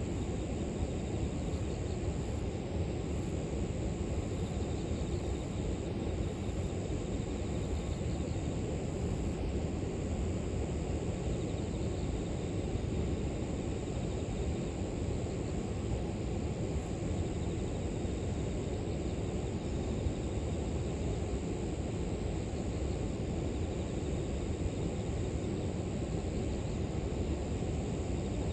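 Steady rush of a flowing river, with a faint, steady high chirring of grass insects above it.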